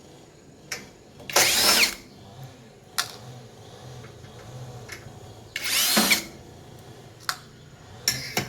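A small hand-held power tool with an electric motor runs in two short bursts of about half a second, about four seconds apart. Its whine glides in pitch as it spins up and down. Sharp clicks fall between the bursts.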